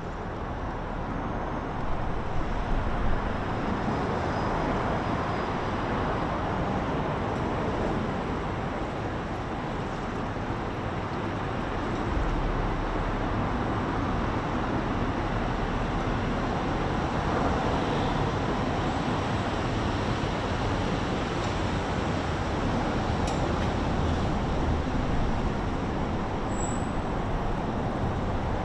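Steady city road traffic: a continuous wash of passing vehicles with low rumble, swelling slightly now and then.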